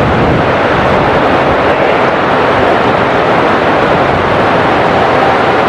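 Steady loud roar of a jet airliner's engines mixed with heavy rain and wind, with a faint engine whine coming in late on.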